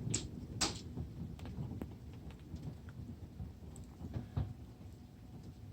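Hailstones striking the deck in scattered, irregular sharp clicks and taps, the two loudest in the first second, over a steady low rush of heavy rain.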